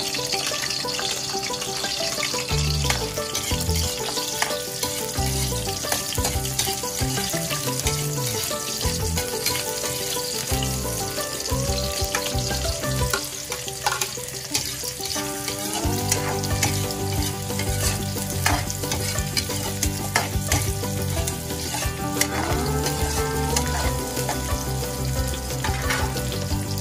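Garlic and onion sizzling in hot oil in a wok, then sliced squid balls tipped in and frying as they are stirred. Background music plays underneath, its bass heavier from about halfway through.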